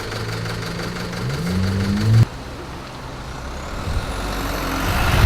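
Road traffic. A vehicle engine accelerates, its note rising in pitch, and cuts off abruptly about two seconds in. Then the noise of another passing vehicle grows louder, with a thin whine rising in pitch.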